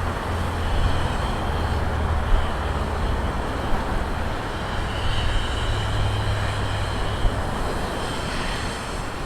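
Large jet airliner's engines idling on the ground, a steady rumble with a faint high whine, its exhaust throwing off visible heat haze as it waits to take off.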